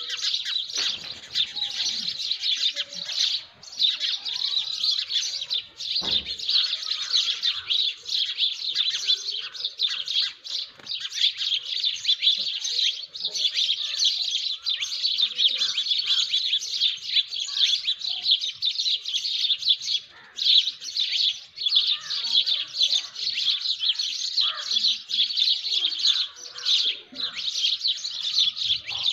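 Dawn chorus: many small birds chirping and twittering at once in a dense, continuous tangle of short high calls.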